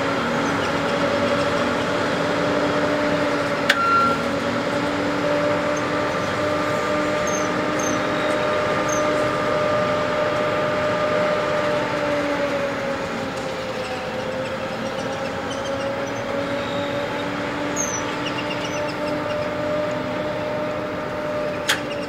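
Narrow-gauge grain train of hopper wagons rolling past as its diesel locomotives accelerate away, with a steady rumble and a whine that wavers slightly in pitch. Two sharp knocks come, one about four seconds in and one near the end.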